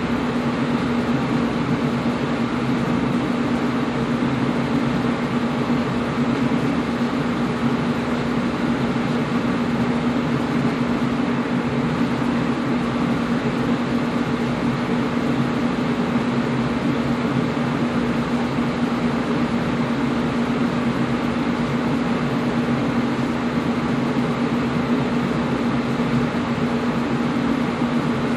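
Air conditioner running steadily: an even rush of air with a constant low hum underneath, unchanging throughout.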